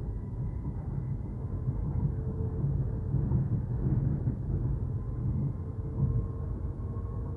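Docklands Light Railway train running, heard from inside the carriage: a steady low rumble of wheels on the track with a faint motor whine that rises slightly near the end.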